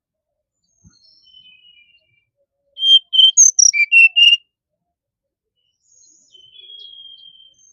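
Brown-chested jungle flycatcher singing: a quick phrase of about eight clear whistled notes jumping up and down in pitch, about three seconds in. Before it come softer thin whistles, and near the end one long faint whistle.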